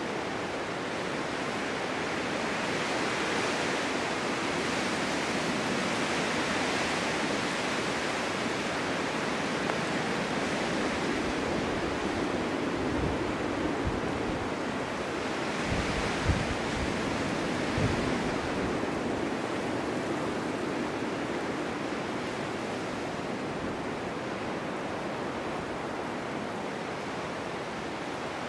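Strong winter wind blowing in slow gusts, rising and easing as a steady rush of noise. A few low thumps come through near the middle.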